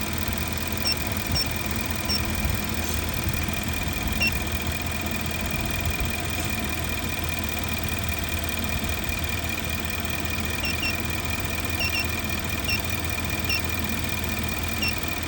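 Infiniti SUV's 5.6-litre V8 idling steadily, with a thin steady high-pitched tone over the engine hum and a few faint short chirps now and then.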